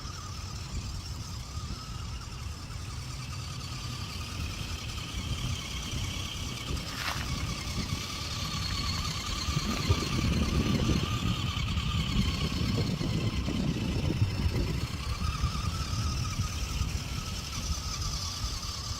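Tiny RC 6x6 truck's electric motor and gears whining steadily as it drives. A louder low rumble joins from about halfway through and eases off near the end, with a brief sharp chirp just before.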